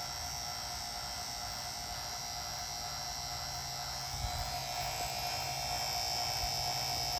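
Vacuum pump running steadily with a hum and a high whine, pulling a vacuum on an empty refrigerant recovery tank to draw out the air. It gets a little louder in the second half.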